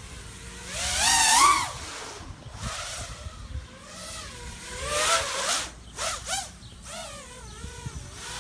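Quadcopter drone motors whining, the pitch gliding up and down repeatedly as the throttle changes; loudest about a second in.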